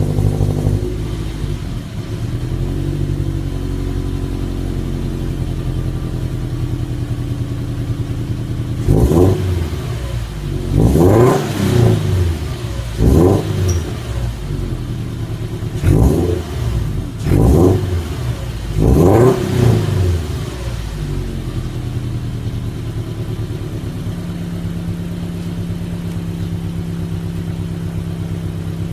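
Early Toyota 86's FA20 flat-four boxer engine, with an unequal-length exhaust manifold and a TRD muffler, idling cold and then blipped with about seven short throttle revs in quick succession in the middle stretch. Each rev rises and falls quickly before the engine drops back to a steady idle.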